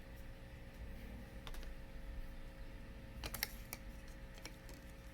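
Light plastic clicks and taps from handling a mechanical Bakugan toy: a few scattered single clicks, with a quick cluster about three seconds in.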